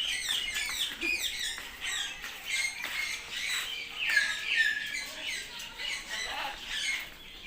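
Many birds calling at once: a dense chatter of short squawks and chirps that overlap without a break.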